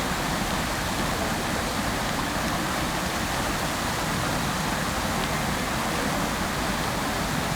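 Fountain water splashing steadily, an even, unbroken rush of falling water.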